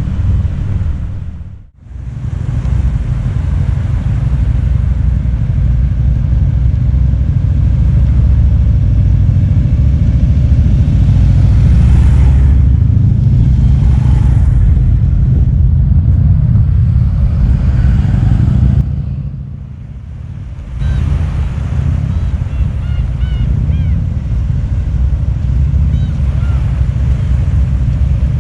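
Harley-Davidson motorcycles running as the group rides, a steady low rumble that drops out briefly twice, just before 2 seconds in and again around 19 to 21 seconds in.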